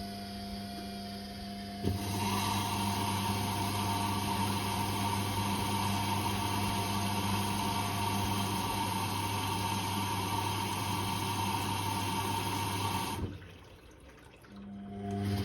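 Whirlpool Indiana 1400 washing machine with water rushing through it over a steady low hum. The rush starts about two seconds in and cuts off suddenly near the end, leaving the hum.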